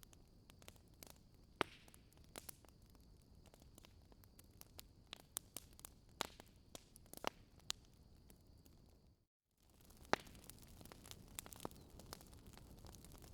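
Campfire crackling faintly: burning wood giving scattered sharp pops and cracks over a soft hiss. The sound cuts out to silence for a moment just past the middle.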